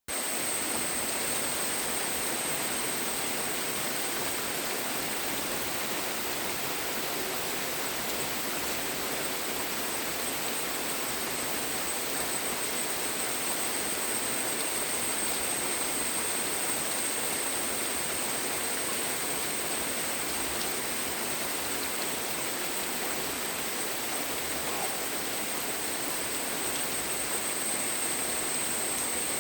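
Steady, even rainfall, with a thin high-pitched tone held steadily above it.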